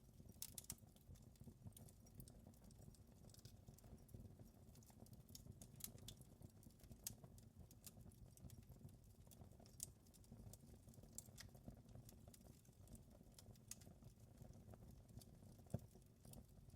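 Fire in a fireplace crackling: irregular small pops and snaps over a low steady rumble, with one sharper pop near the end.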